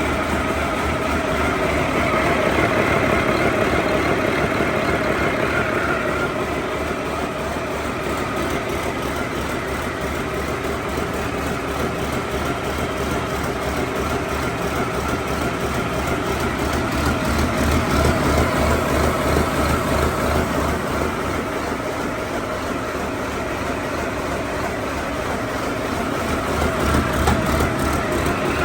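2010 Mack MP7-325M 10.8-litre inline-six diesel engine running steadily with an even beat of firing pulses, swelling slightly in loudness a few times.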